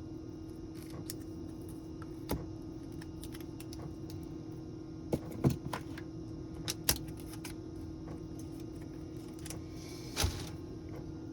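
Small hand tools and phone parts handled on a workbench during a phone repair: a few scattered sharp clicks and taps, the loudest about ten seconds in, over a steady low hum.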